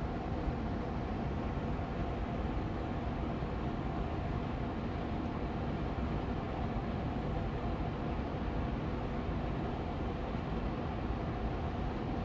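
Air purifier fan running steadily on medium speed: an even whoosh of moving air with a faint steady hum.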